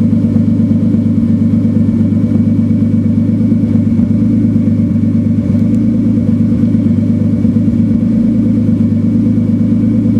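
Turbo 328 engine idling with an uneven, stumbling beat: a misfire at idle.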